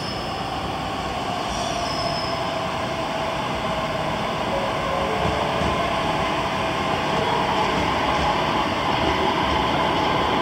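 Train running, a steady rumble that grows gradually louder, with a faint whine from the wheels or motors.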